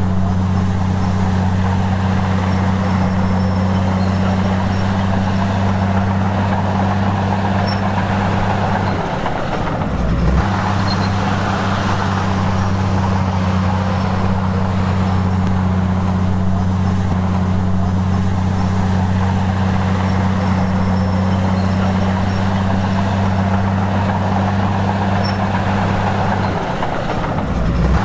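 A heavy diesel engine running steadily with a deep, even drone, briefly dipping and changing about a third of the way in and again near the end.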